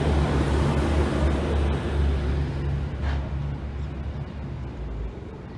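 Low rumble of a train's last carriage rolling past on the rails, fading as it moves away. A brief sharp sound comes about three seconds in.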